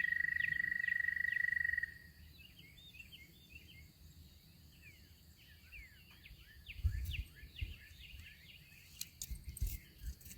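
A steady, high, pulsing trill stops about two seconds in. Many quick high chirps of small birds follow, with a few low thumps and clicks near the end.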